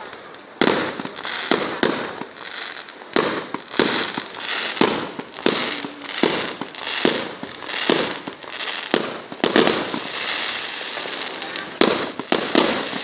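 Fireworks going off in a rapid series of sharp bangs, one or two a second, with crackling and hiss between them. Near the end the bangs pause for about two seconds while a steady crackle goes on, then a last few bangs follow close together.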